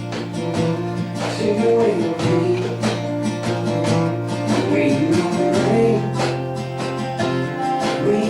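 Acoustic country band playing a song live, with strummed and picked acoustic guitar.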